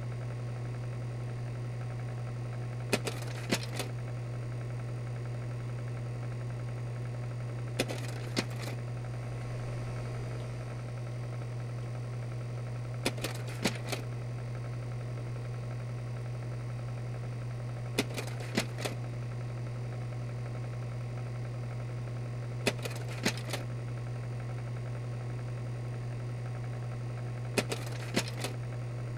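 Slide projector running: a steady motor and fan hum, with a short clack-clack of the slide-change mechanism about every five seconds as the tray advances to the next slide.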